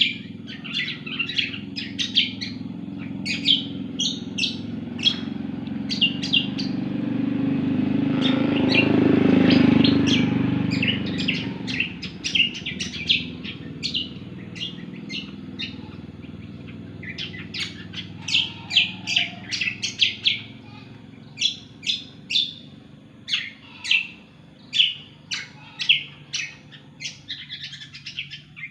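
A cucak kombo songbird singing vigorously: a fast, almost unbroken run of sharp high chirps and trills with short pauses. A low rumble swells and fades about a third of the way through.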